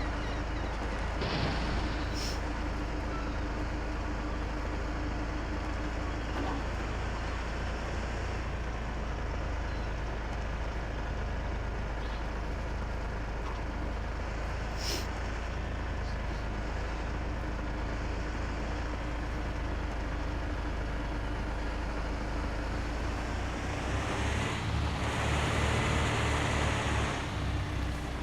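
Truck engine running steadily with road noise, a low rumble under a steady hum. Near the end a louder rushing hiss rises for about three seconds and dies away.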